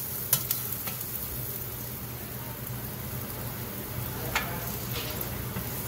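A filled tortilla sizzling on a hot cast-iron griddle pan as a metal spatula folds it, with a few short clicks and scrapes of the spatula on the pan about half a second in and again around four and a half seconds. A low steady hum runs underneath.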